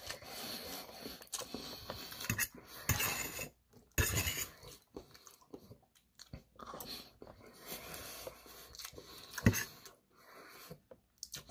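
Close-up chewing of a mouthful of fried tofu and fried rice, wet and irregular, with scattered sharper smacks and clicks.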